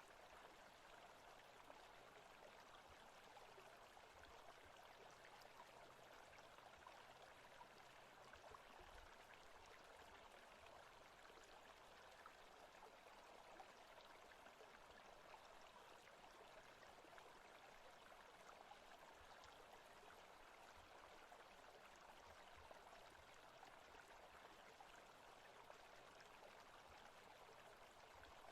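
Faint forest-ambience recording of running water, a steady, unbroken stream rush.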